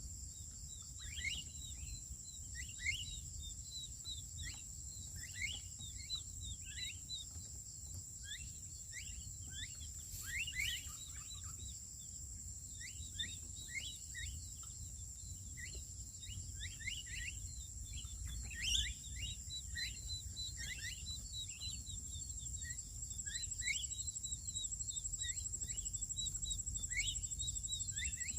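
Many birds calling continuously, mostly short chirps that slide down in pitch, over a steady high insect buzz.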